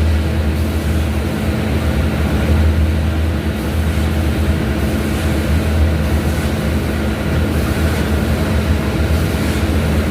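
Bandsaw running steadily: an even, low motor hum with a constant drone and no change in speed.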